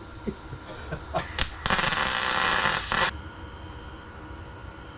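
MIG welder laying a short bead on steel exhaust pipe: a couple of brief crackles, then a steady crackling arc for about a second and a half that cuts off suddenly.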